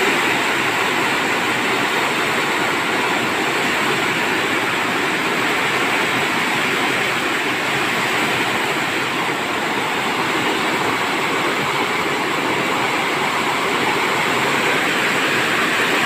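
Steady rain falling, a dense, even hiss with no single drops or thunder standing out.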